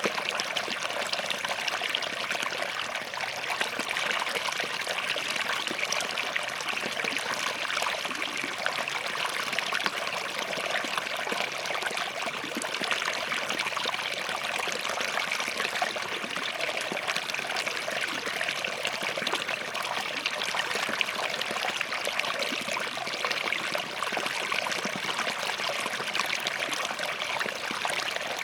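Small forest stream flowing steadily over and between rocks, a continuous babble with little splashing trickles.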